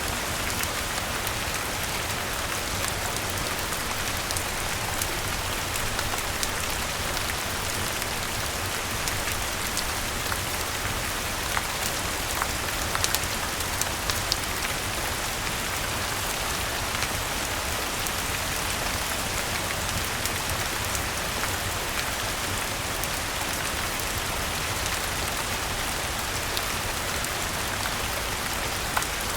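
Steady rain falling, with scattered sharp crackles from a wood fire, a few louder snaps about halfway through.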